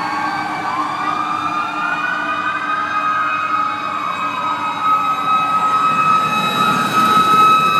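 Several fire truck sirens wailing at once, their pitches rising and falling out of step with one another, with one settling into a steady high tone over the last few seconds.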